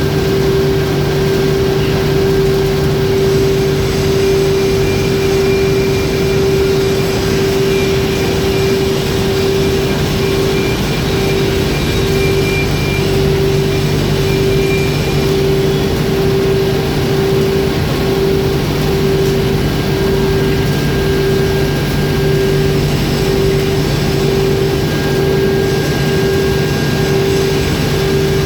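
Steady, loud hum of foundry machinery used in casting iron, with one strong steady tone and a lower drone over a constant noise; about a third of the way in the tone starts pulsing on and off at an even rate.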